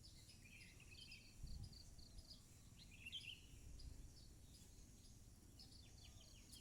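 Sparrows chirping faintly, many short chirps over and over, over a faint low rumble of outdoor background noise.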